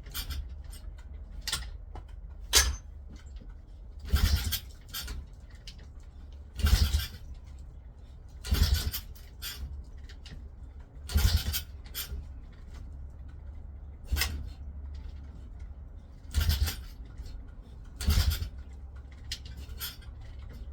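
140cc pit bike engine being turned over again and again in short start attempts, about nine, roughly every two seconds, never catching. The owner suspects the spark plug or the CDI, or failing those the timing.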